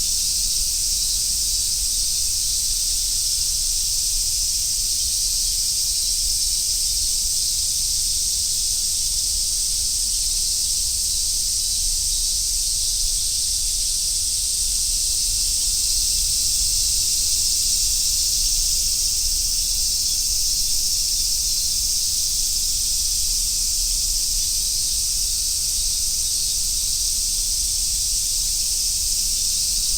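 Cicada chorus in summer woodland: a dense, steady, high-pitched sizzling drone that swells slightly about two-thirds of the way through.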